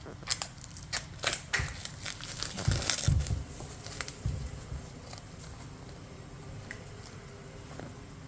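Kitchen work: a quick run of sharp knocks and clicks, some with a dull thud, during the first four seconds or so, then only a few faint clicks.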